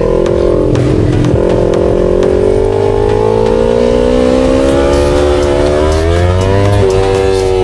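Yamaha R3's parallel-twin engine under way, its pitch climbing steadily for several seconds as the bike accelerates through a gear, with a brief drop about a second in like a gear change.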